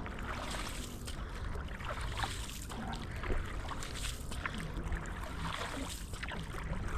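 Canoe paddle strokes in river water, with irregular splashes and trickles over a steady low wind rumble on the microphone.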